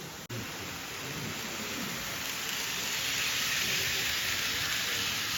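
N-gauge model train running on the layout track: a steady rushing, rattling noise that grows louder over the first few seconds, after a brief drop-out just after the start.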